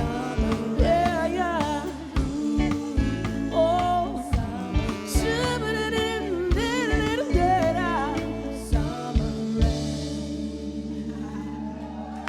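Live soul-rock band with drum kit, guitar and bass playing the closing bars of a song, with a singer's vocal runs over sharp drum hits. About nine seconds in the voice and drums stop and the band holds a final chord that slowly fades.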